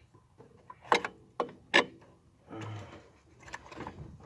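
Metal-on-metal clicks and knocks from hand tools and turbo wastegate actuator parts being worked into place in an engine bay, with a short rasping scrape about two and a half seconds in.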